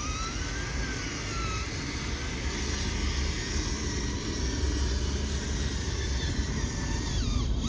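Small electric motors and gearboxes of RC construction trucks running, a dense whirring with a low rumble. Whines rise and fall in pitch as the throttle changes.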